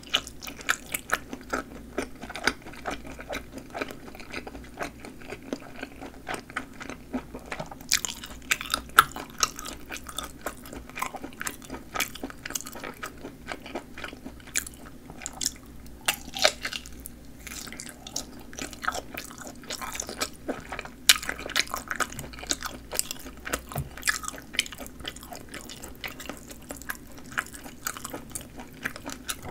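A person chewing and biting sausage: a steady run of small wet mouth clicks and squishes, with a few louder, sharper snaps.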